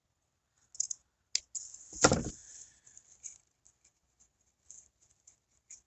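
Hands working on a patched rubber intake boot: scattered small clicks and rustles, with one louder knock about two seconds in.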